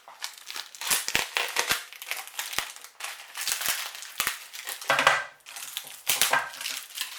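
Packaging wrap crinkling and crackling as it is handled and pulled off a potted plant, with scattered sharp clicks. The loudest crackles come about five and six seconds in.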